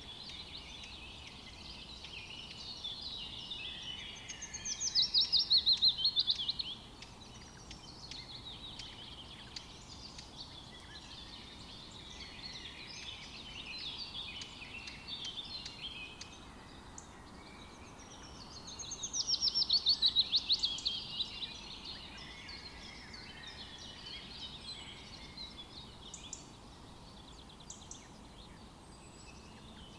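Forest birdsong: several birds singing over a faint steady background hiss. A loud, rapid trill that falls in pitch comes twice, about five seconds in and again about twenty seconds in.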